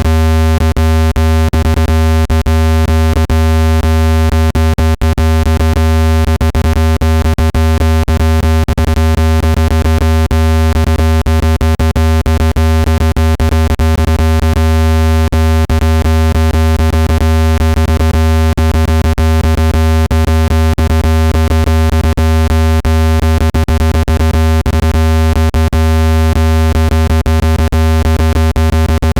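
Speaker-cleaning tone: a loud, steady low hum with a buzzy stack of overtones, broken by irregular crackling clicks all through. It is meant to be played at full volume to shake dust out of a phone speaker.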